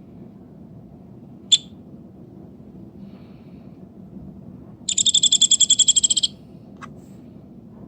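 Woodpecker calling: a single sharp call about a second and a half in, then a rapid rattling run of about ten high notes a second lasting over a second, and one more short call near the end, over a faint steady background hiss.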